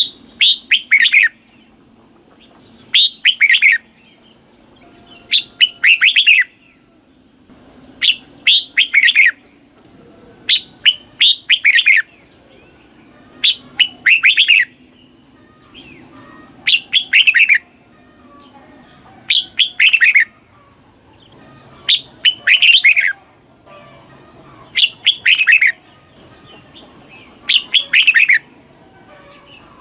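Red-whiskered bulbul singing: short loud phrases of a few quick whistled notes that fall in pitch, repeated about every two and a half seconds.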